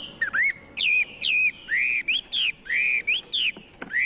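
A songbird singing: a quick run of clear whistled notes that rise and fall in pitch, repeated over and over.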